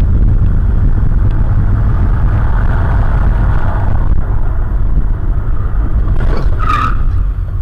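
Steady road and engine rumble of a moving car heard from inside the cabin through a dashcam. About seven seconds in, a brief high-pitched sound cuts through it.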